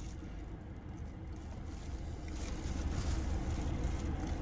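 Steady low rumble of a car heard from inside the cabin, growing slightly louder after about two seconds.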